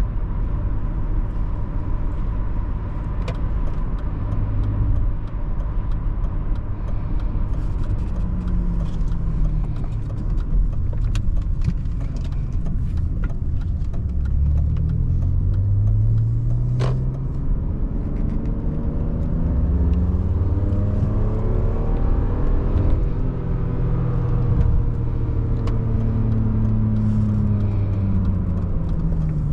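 BMW 530i E39's 2979 cc inline-six petrol engine heard from inside the cabin over road and tyre noise, revving up twice under acceleration and then settling to a steady cruise near the end.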